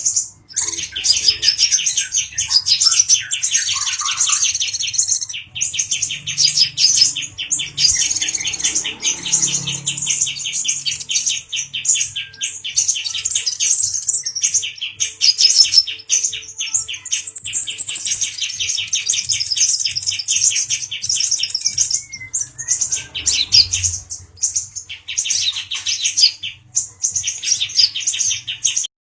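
Male kolibri ninja dada coklat (konin dacok sunbird) singing a very fast, high-pitched trilling song in long runs broken by short pauses.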